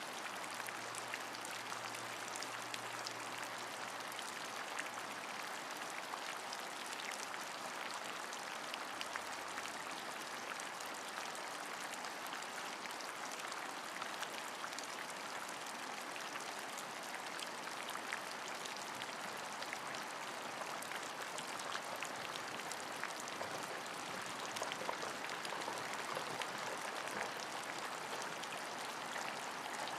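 Steady rain falling, a continuous hiss dotted with many small, sharp drop impacts.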